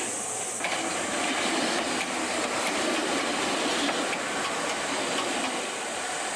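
Ohmi Railway train running past over the level crossing: a steady rush of wheel and running noise on the rails.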